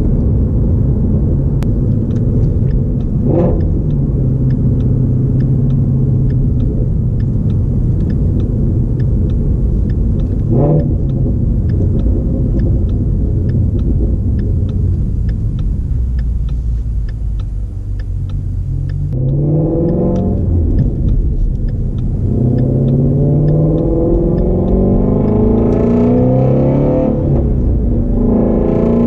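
Shelby GT350's 5.2-litre flat-plane-crank V8 heard from inside the cabin, cruising at a steady drone for most of the stretch. In the last third it accelerates through the gears, its pitch climbing in several rising sweeps with drops between them at each upshift.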